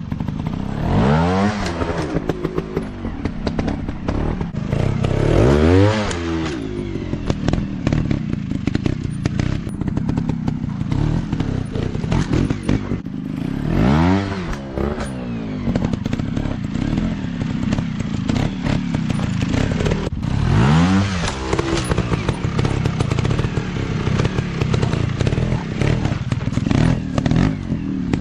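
Off-road dirt bike engines running hard, revving up and falling back in four big bursts, with clattering and thumps over rough ground.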